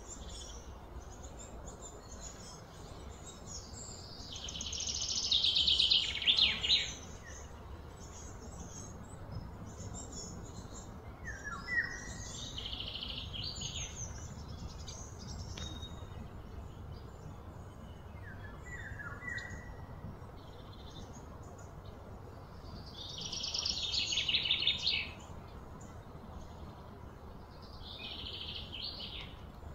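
Wild birds calling: four rapid pulsing trills of two to three seconds each, the loudest about five seconds in and again past twenty-three seconds, and a couple of short falling chirps in between, over a steady low background hum.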